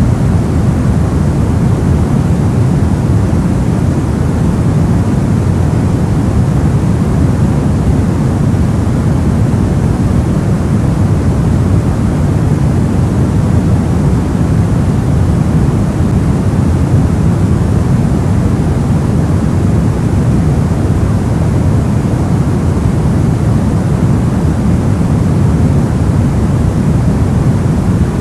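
Steady, unchanging soft white noise, heavy in the low end and gentle in the highs, a continuous sleep-noise hiss and rumble.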